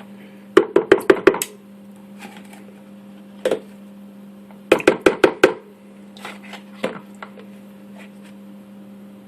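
Quick runs of sharp knocks and taps as Greek yogurt is spooned into a blender carafe: two bursts of about six rapid knocks, with a few single taps between.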